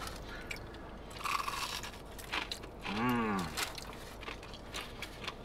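Close-up chewing and crunching on a Korean corn dog coated in crisp cut-up French fries, with scattered crisp bites, and a brief hummed vocal sound about three seconds in.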